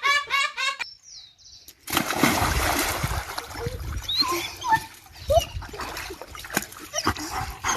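Laughter breaks off about a second in. After a short silence, water splashes continuously, with short pitched calls scattered over it.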